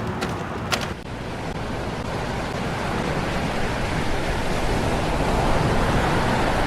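Steady rushing of ocean surf, growing slowly louder, with a few faint clicks in the first second.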